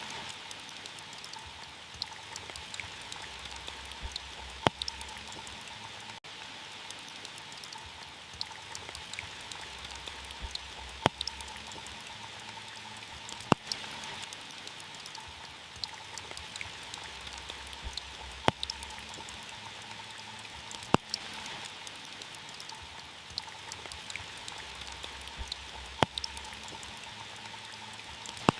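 Heavy rain falling on a car's roof: a steady patter, with a sharp louder knock every few seconds where a single heavy drop hits the metal.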